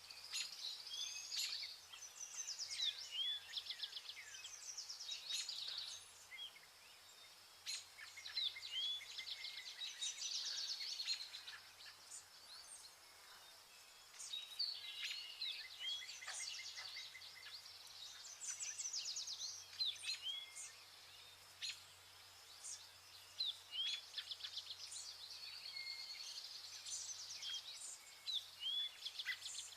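Vernal hanging parrots calling: high, thin chirps and quick twittering trills in clusters every few seconds, over a faint steady low hum.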